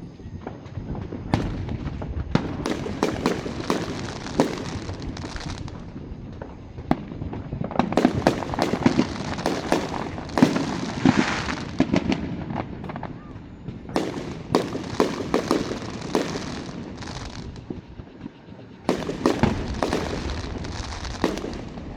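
Aerial fireworks going off in rapid volleys, many sharp bangs and crackles coming in four dense clusters with short lulls between.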